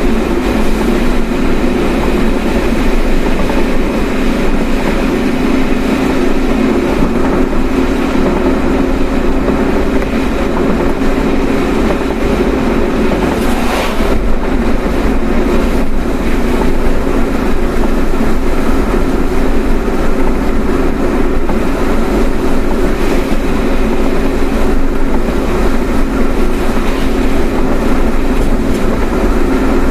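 Steady road and tyre noise with engine hum heard inside a moving car's cabin, with a brief knock about fourteen seconds in.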